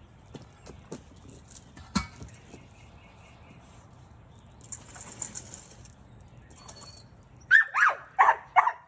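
Light clicks and rustling, then near the end a dog barks four times in quick succession, each bark short and falling in pitch.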